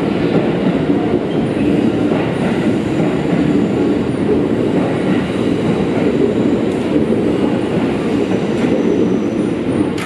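Keikyu commuter train running past the platform close by: a loud, steady rumble of wheels on rails with some metallic ringing.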